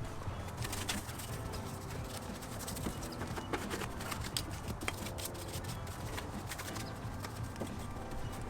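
Detailing brush scrubbing degreaser-soaked engine bay parts: irregular scratchy strokes and light taps of the bristles and handle against plastic and metal.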